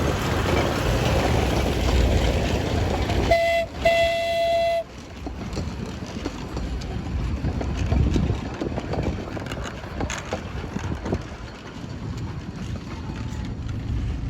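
A small train running with a low rumble, sounding two toots on its horn, a short one then a longer one, about three to five seconds in; the rumble then cuts off suddenly, leaving quieter outdoor noise with light knocks.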